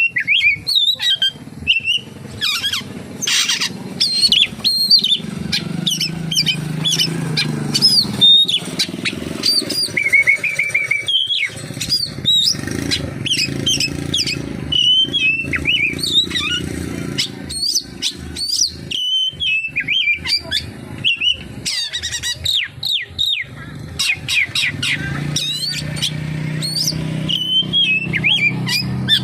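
Oriental magpie-robin (kacer) singing continuously, a fast, varied run of whistles, chirps and trills packed with mimicked phrases, with a rapid repeated note about ten seconds in. A low steady hum runs underneath.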